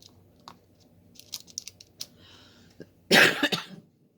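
A few light clicks and taps, then about three seconds in a single loud cough lasting under a second.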